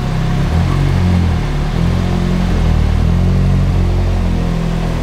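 BAC Mono's four-cylinder engine running at low revs as the car creeps backwards into a parking space in reverse gear, its note shifting slightly with small throttle changes.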